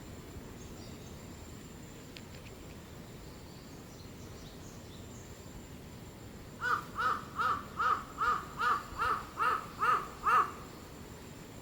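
An animal giving a quick, even series of about ten short, loud calls, each rising and falling in pitch, starting a little past the middle and stopping abruptly.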